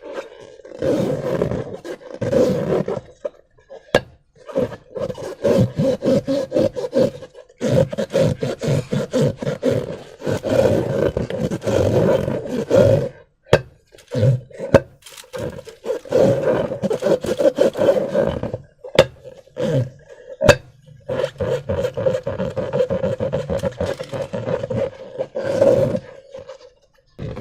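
Transparent rubber balloons with slime being squeezed and rubbed by hand, squeaking and grating in stretches of a few seconds each with short pauses between, and a few sharp clicks.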